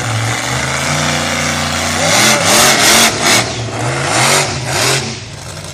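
Monster truck engine running low and steady, then revved hard several times from about two seconds in, its pitch rising and falling with each rev.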